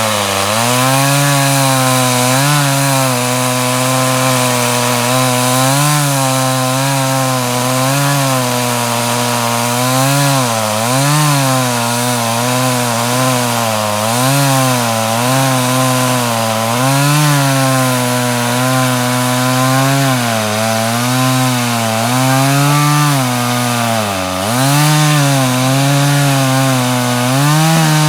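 Chainsaw running under load, cutting through logs, its engine pitch repeatedly dipping as the chain bites into the wood and rising again, with one deeper dip near the end.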